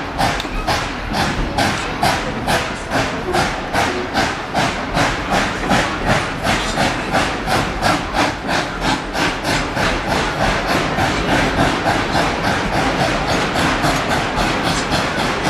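Steam locomotive chuffing in an even rhythm, its exhaust beats quickening from about two to about four a second as it picks up speed.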